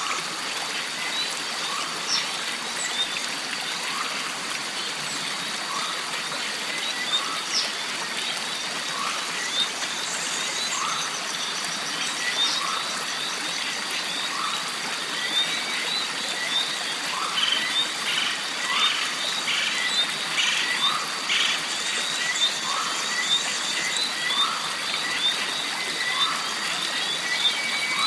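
Jungle stream ambience: running water under a steady high whine, with a short rising animal call repeating about every second and a quarter and a flurry of higher chirping calls in the middle.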